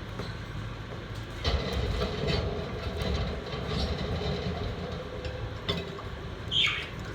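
A low rumbling noise that swells about a second and a half in and eases off near the end. Near the end, one short falling call from a budgerigar.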